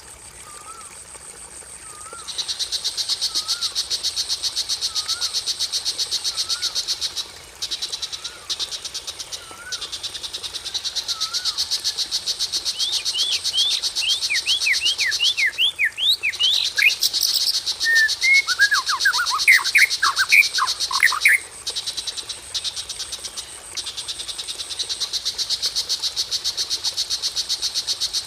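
Recorded songbird calls for bird training: a soft rising whistle repeated about once a second, then in the middle bursts of quick downward-sweeping notes. Under them runs a steady, fast-pulsing high trill like a cricket, which breaks off a few times.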